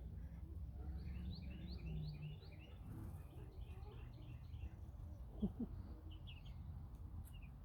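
Faint run of quick, high bird chirps over a steady low background rumble, with a brief lower call about five and a half seconds in and a few more chirps after it.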